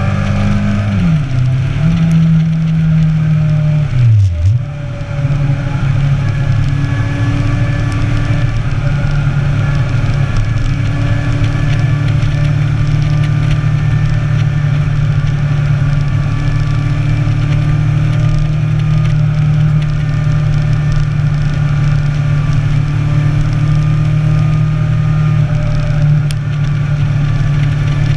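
Sport motorcycle's inline-four engine running under way. Its pitch drops sharply and climbs back about a second in and again at about four seconds, as at gear changes, then holds at a steady cruise, with a constant rush of wind noise.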